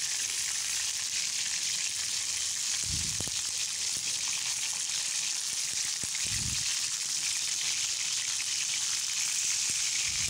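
Beef koftas (minced-meat balls) sizzling steadily as they shallow-fry in hot oil in a frying pan, with a couple of soft low thumps about three and six and a half seconds in.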